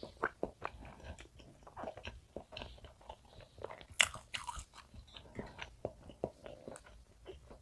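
Close-miked chewing of soft almond-flour castella cake with fruit jam: many small wet mouth clicks and smacks. About four seconds in there is a brief, louder, sharper scratchy sound.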